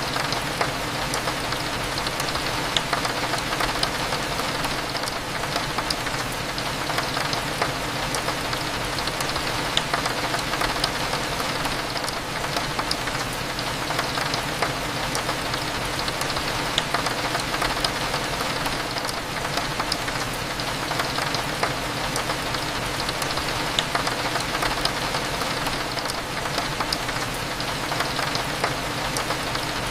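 Steady rain on a window, full of small drop taps, over a low steady hum.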